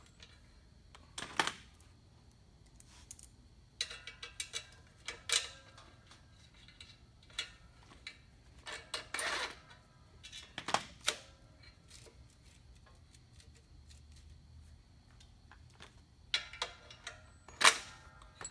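Irregular metallic clinks, taps and knocks as clutch parts and bolts are handled and fitted against the engine's stacked flywheel, with the clutch disc being lined up by hand without an alignment tool. A few louder knocks stand out, about a second and a half in, near the middle and near the end.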